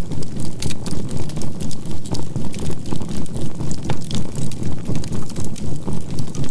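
Healing-music track of a low tone pulsing evenly several times a second, typical of a 528 Hz binaural-beat soundtrack, layered with the crackling of burning charcoal in a campfire.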